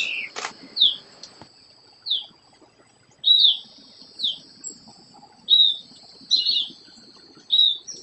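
Birds chirping: a string of short, high chirps, each sliding down in pitch, about a second apart, over a faint steady high hiss.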